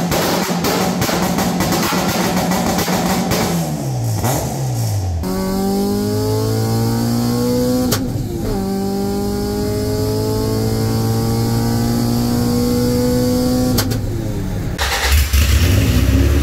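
Honda Civic's swapped H23A/B16 (H2B) four-cylinder engine. At first it is revving and falling back. Then it pulls hard in gear with the pitch climbing steadily, breaks briefly at a gear change near the middle, and climbs again, heard from inside the cabin.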